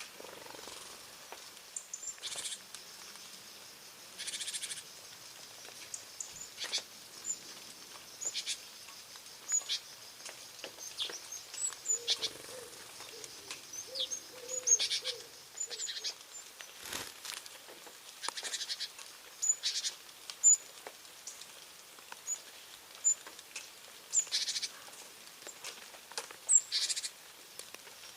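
Eurasian blackbirds calling at a feeding spot: short, high chirps repeated at irregular intervals, with several brief rasping bursts. A low warbling sound comes in the middle, and there is one sharp knock a little over halfway through.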